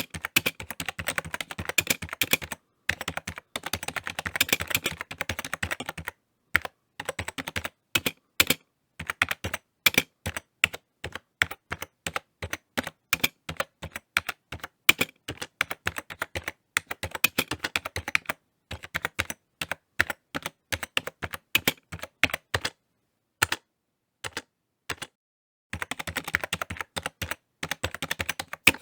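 Typing on a computer keyboard: fast runs of key clicks at the start and again near the end, with slower, separate keystrokes and brief pauses in between.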